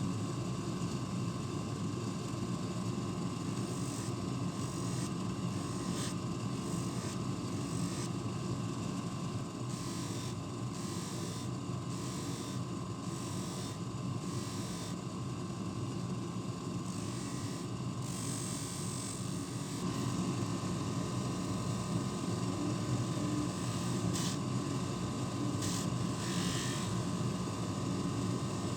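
A small motor running steadily, with scattered light clicks and scrapes over it.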